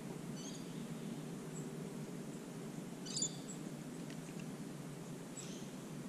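Short, high-pitched bird chirps: one near the start, a louder one about three seconds in, and another near the end. Under them runs a steady low background rumble.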